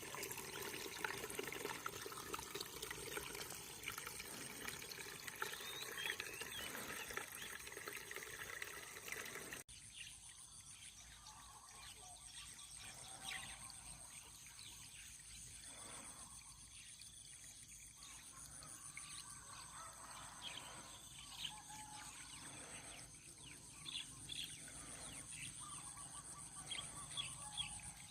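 Faint countryside morning ambience: scattered bird chirps over a steady high-pitched hiss. The sound changes abruptly about ten seconds in, as at an edit.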